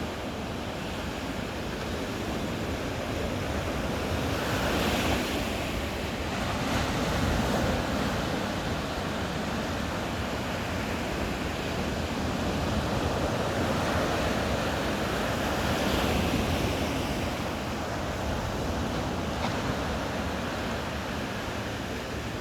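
Ocean surf breaking and washing up on a beach, a steady rush that swells and ebbs every several seconds.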